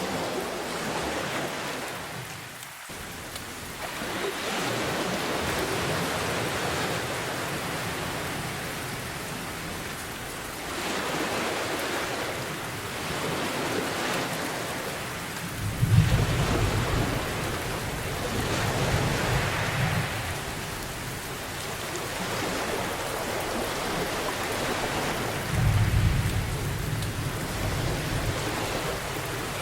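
Steady heavy rain, with surf surging in slow swells, and two deep rolls of thunder, one about halfway through and one near the end.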